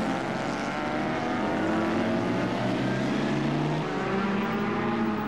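Racing sports car engine running at speed on track, a steady multi-harmonic engine note whose pitch drifts slowly up and down.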